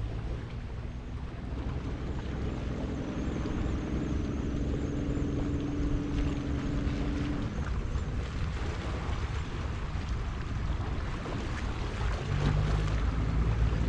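Wind rumbling on the microphone over the sea at a rocky shore. A boat engine drones steadily through the first half.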